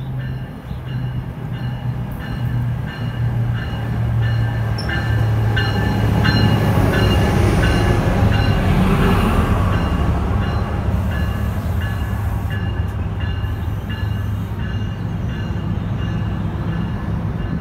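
NJ Transit ALP-45DP dual-mode locomotive running on its diesel engines as it passes close by, pulling bi-level coaches. It grows to its loudest about six to nine seconds in as the locomotive goes past, then the cars roll by with a steady rumble. A regular ringing tick repeats about twice a second through the first half.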